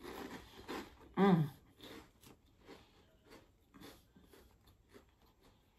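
Close-up chewing of crunchy flour-based chicharrones chips: crisp crackles at first, then sparser soft crunches that die away. A short hummed vocal sound comes about a second in.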